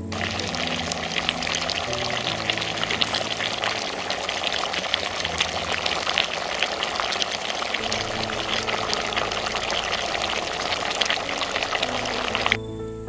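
Chicken pieces, onion and pepper sizzling in fat in a cast iron kettle, a dense crackling hiss that cuts off suddenly near the end, with background music underneath.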